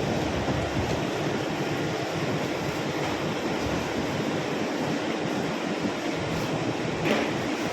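Steady rushing noise of an SPB-DH2 mini induction melting furnace running, with a brief knock about seven seconds in.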